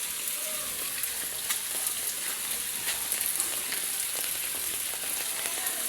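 Heavy rain falling: a steady hiss of downpour with many sharp drop ticks through it.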